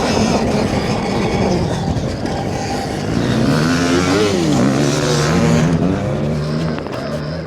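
Dirt bike riding on a motocross track: rough wind and ground rumble, then from about three seconds in a motor sound that rises and falls in pitch as the throttle is worked.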